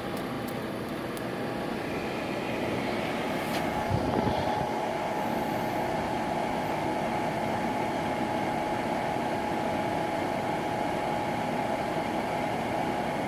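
Atwood RV propane furnace's blower motor spinning up and running, a steady whirring hum with a constant whine that builds over the first couple of seconds and then holds, with a single click about four seconds in. This is the blower's pre-purge run before the burner lights.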